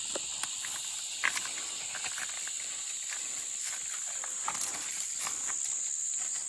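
Steady high-pitched insect chorus droning without a break, with scattered faint clicks over it.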